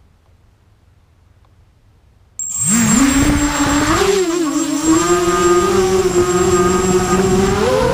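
Self-built QAV250 race quadcopter: quiet for about two seconds, then its brushless motors and propellers start suddenly and spin up in a quick rising whine. They settle into a steady buzzing drone whose pitch wavers with the throttle and climbs slightly near the end, with a thin high whistle alongside.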